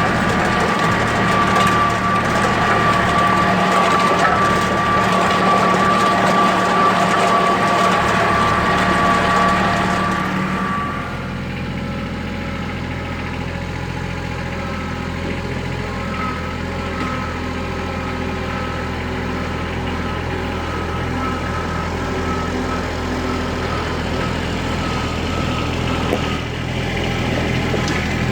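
2010 Kubota L3700SU diesel tractor engine running steadily, with a high whine over the engine for about the first ten seconds; then the sound drops to a lower, quieter steady run.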